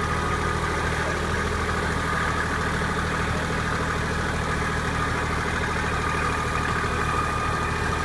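Large tractor engine running steadily at idle, with a steady whine over a low, even drone.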